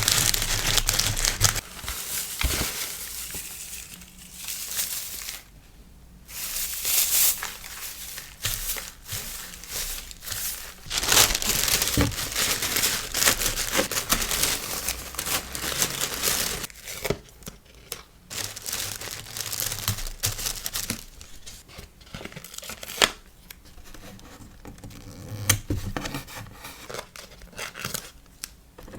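Paper and plastic packaging crinkling and tearing as it is handled, in uneven bursts with short pauses and a few sharp clicks.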